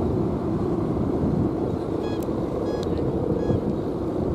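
Strong wind rumbling steadily on the microphone, with a few short high chirps around the middle.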